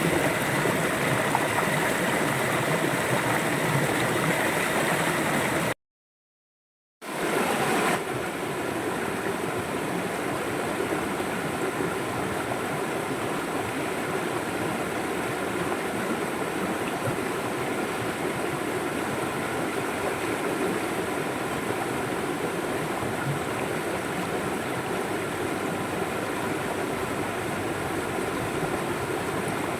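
River water flowing in a steady rush. About six seconds in, it cuts out to silence for about a second, then comes back with a little less high hiss.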